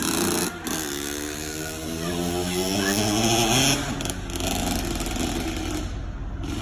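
Motorcycle engine accelerating: its pitch climbs steadily for a few seconds, then drops and runs lower, with wind rush over it.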